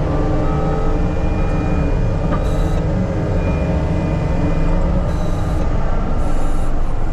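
Diesel engine of heavy earthmoving equipment running steadily under work, with a few brief high hisses mixed in.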